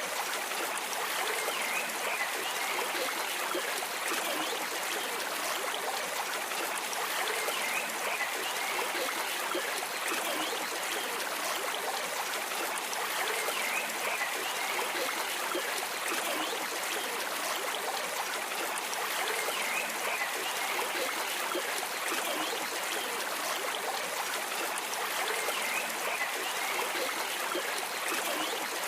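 A stream running steadily, with a continuous babbling trickle of water.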